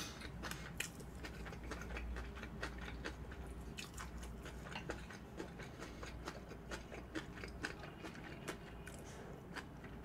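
Close-miked chewing of a mouthful of flying fish roe bibimbap: soft, irregular small clicks and wet mouth sounds, several a second.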